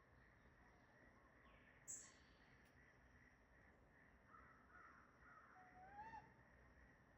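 Near silence with faint bird calls: scattered short chirps and, about six seconds in, a brief whistle that rises sharply. A faint sharp click about two seconds in.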